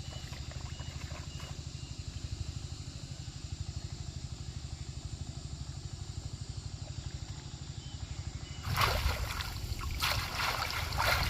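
A small engine running steadily with a low, fast throb. About three-quarters of the way through it gives way to louder, irregular splashing and sloshing of water.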